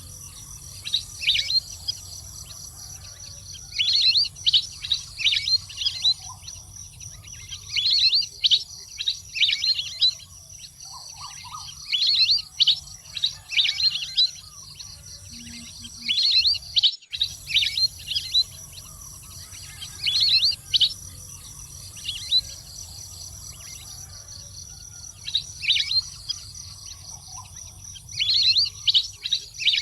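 Wild duck calls: clusters of quick, high whistled chirps that come in bursts every few seconds over a steady high hum.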